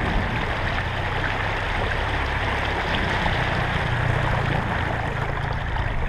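Small boat's outboard motor running steadily, with water rushing past the hull.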